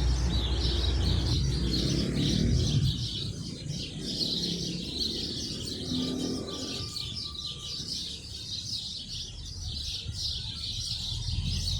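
A chorus of small birds chirping, many quick high chirps overlapping without a break. A low rumble underneath fades out in the first few seconds.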